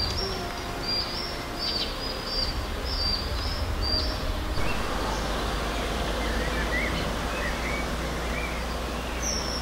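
Outdoor ambience of birds calling over a steady low rumble. One bird repeats a short high chirp about twice a second for the first four seconds, then softer, lower chirps follow.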